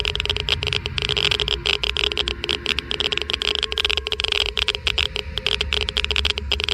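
Geiger counter crackling with rapid, irregular clicks, over a steady low rumble and hum.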